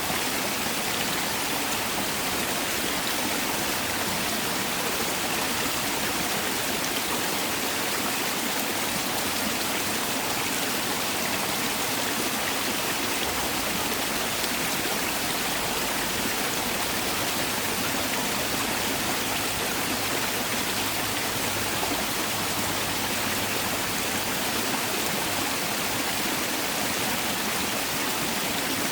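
Mountain valley stream, water flowing and splashing over rocks in a steady, even rush.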